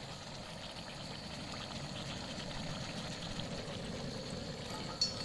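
Steady low roar of a cooking flame under the pot, with one short metallic clink near the end.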